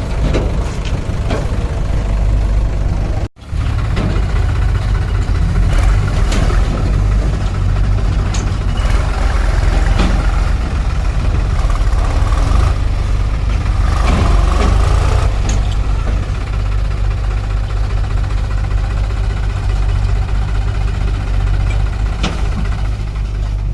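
Tractor's diesel engine running steadily, with a brief break in the sound about three seconds in.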